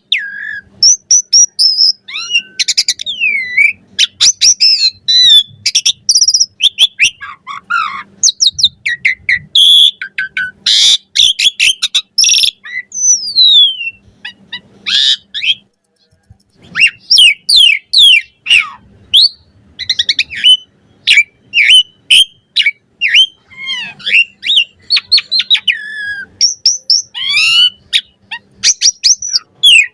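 Asian pied starling (jalak suren) singing a long, varied song of rapid whistles, clicks and gliding notes, with a short break about halfway through.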